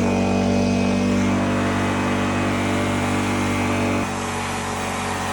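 Engine of a home-built riding lawnmower running steadily under load, its sound dropping suddenly about four seconds in.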